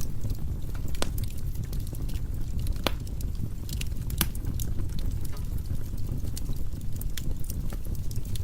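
Firewood burning in a fireplace: a steady low rumble of flames with irregular sharp crackles and pops from the logs, a few louder pops about one, three and four seconds in.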